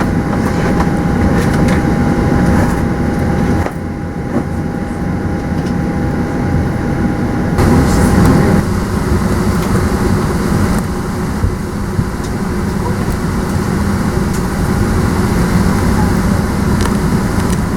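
Airliner boarding ambience: a steady rumble and hum with indistinct voices of people around. The background changes abruptly twice, a few seconds in and again near the middle.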